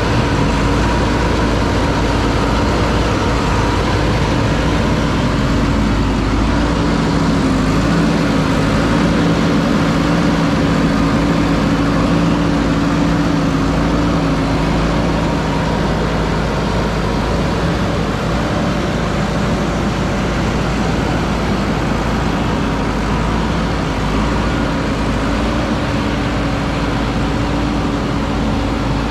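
JCB backhoe loader's diesel engine running steadily with a deep rumble, its note shifting a little as the machine works.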